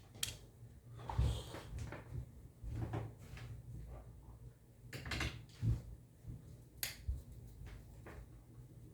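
Scattered light clicks and knocks from an Xbox controller's plastic parts being handled and fitted together while a screw is put in.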